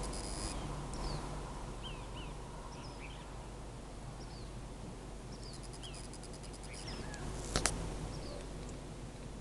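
Outdoor nature ambience: many short bird chirps, scattered throughout. A rapid high ticking trill comes at the start and again about six seconds in, and one sharp click sounds about seven and a half seconds in, over a steady low background noise.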